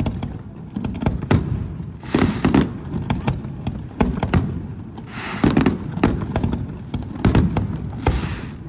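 Fireworks going off in a rapid, irregular string of sharp bangs, with stretches of hissing crackle from crackling shells, the longest about halfway through.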